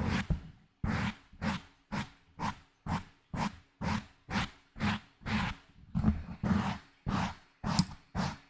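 Gentle ASMR scratching on a microphone, close up: repeated rhythmic scratching strokes, about two a second, each with a rumbling low end.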